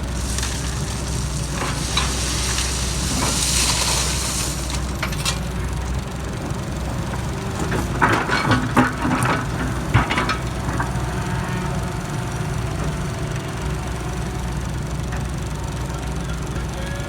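JCB JS160 wheeled excavator's diesel engine running steadily. For the first few seconds a hiss rides over it, and a cluster of clanks and knocks comes about eight to ten seconds in.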